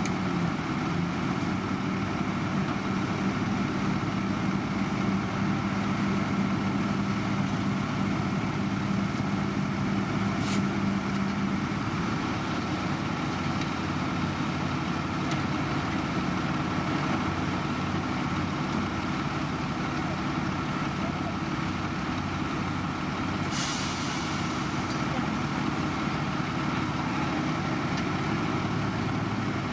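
Heavy diesel construction machinery running steadily, its engine note shifting about twelve seconds in. A short hiss of air comes about two-thirds of the way through.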